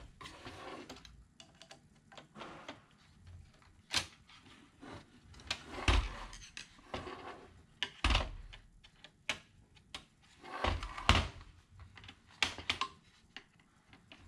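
Plastic instrument-cluster parts being handled and pressed together, giving irregular clicks, taps and knocks, with a few louder knocks spread through.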